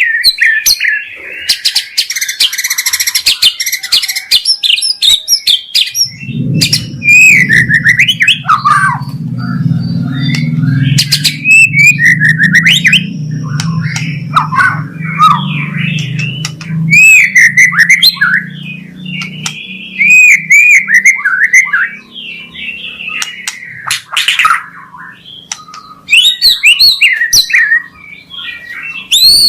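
White-rumped shama singing a fast, varied run of loud whistled phrases broken by sharp clicks and harsh rough notes. A low steady hum sits under the song from about six seconds in until about twenty seconds in.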